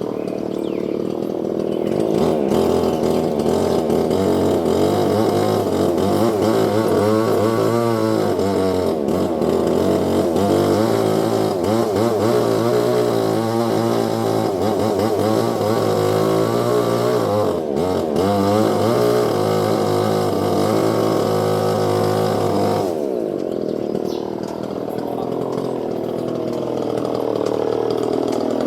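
A small engine running loudly, its pitch rising and falling unevenly. About two seconds in it gets louder, and near the end it drops to a lower, quieter running.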